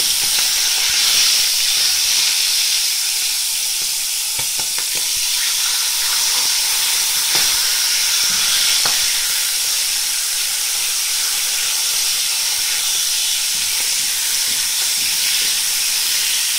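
Whole squid bodies sizzling steadily in hot olive oil in a metal frying pan, turned over with a wooden spatula, with a few scattered pops and clicks.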